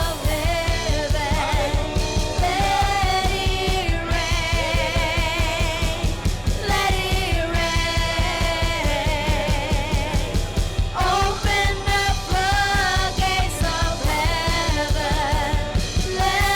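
Live church worship band playing over a steady fast beat, with voices singing sustained, wavering phrases.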